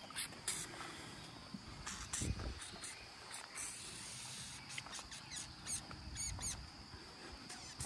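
Small birds chirping in quick, high, repeated notes over a faint steady high hum, with scattered soft clicks and a low thump about two seconds in.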